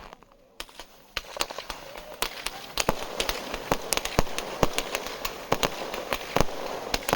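Fireworks going off: after a brief lull, an irregular, quickening string of sharp bangs and pops over a crackling hiss, about half a second in and growing denser.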